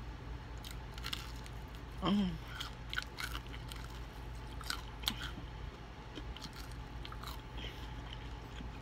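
Close-up mouth sounds of biting and chewing crispy fried chicken: scattered small crunches and wet clicks. A short voiced 'mm' about two seconds in.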